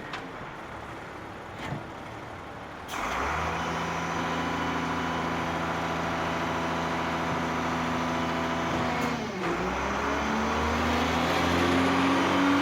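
Heavy truck engine running steadily, its pitch slowly rising near the end. The sound changes abruptly about three seconds in and again about nine seconds in.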